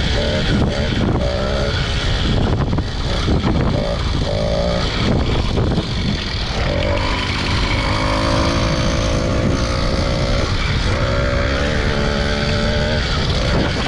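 Small motorbike engine running under way, its pitch rising and falling as it revs, over a steady low rumble.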